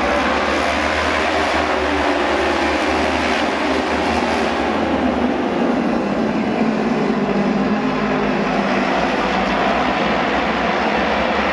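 Auto race motorcycles racing on the oval, their engines giving a loud, steady, continuous din.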